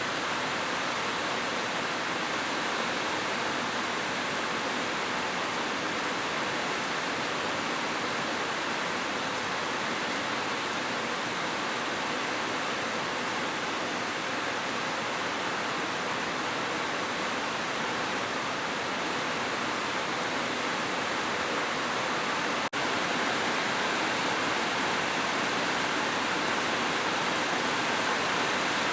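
Heavy rain falling in a steady, dense hiss. It briefly drops out about two-thirds of the way through and comes back slightly louder.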